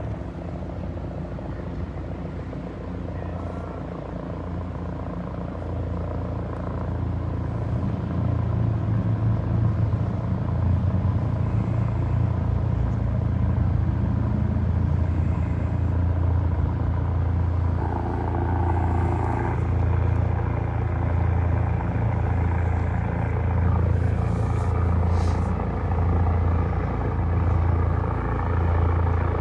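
Medical transport helicopter running close by, its rotor giving a steady low throb that grows louder about eight seconds in.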